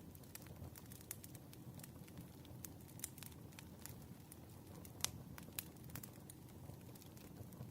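Wood fire burning low and steady, with irregular sharp crackles and pops, the loudest about five seconds in.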